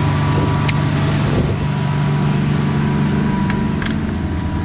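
Boat engine running steadily, a low drone with rushing water and wind noise over it and a few light clicks.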